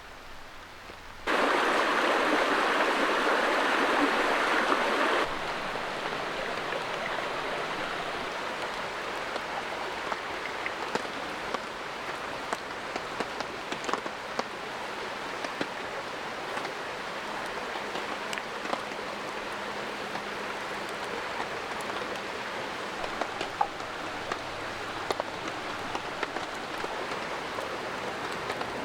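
Steady rain with a rushing creek, and scattered sharp ticks throughout. Near the start a louder stretch of the same water noise lasts about four seconds, starting and stopping abruptly.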